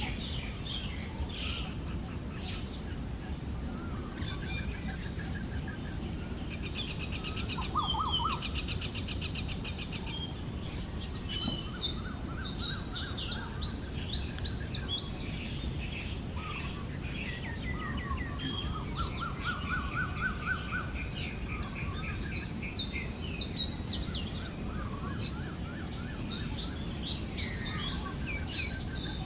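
Chorus of forest birds chirping and trilling, many short calls overlapping throughout, over a steady high-pitched insect drone and a low rush of breeze.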